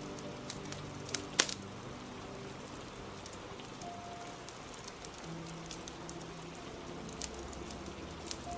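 Steady rain with a fire crackling over it: scattered sharp pops, the loudest about a second and a half in.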